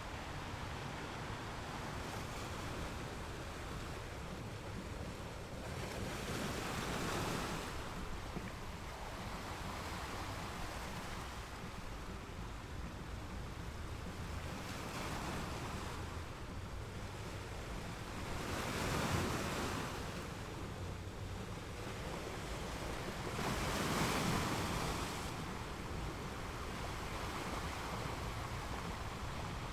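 Ocean waves breaking and washing up a beach, a steady surf hiss that swells louder as individual waves come in, most strongly three times: about 7, 19 and 24 seconds in.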